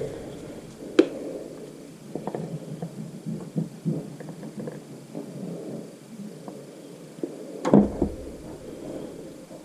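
Workbench handling noises as valves are fitted into a motorcycle cylinder head: scattered light clicks and taps, a sharp click about a second in, and a heavier knock near the end.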